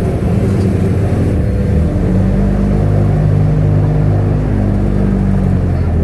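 Airboat's engine and big air propeller running loud and steady, the pitch shifting a little now and then as the throttle changes.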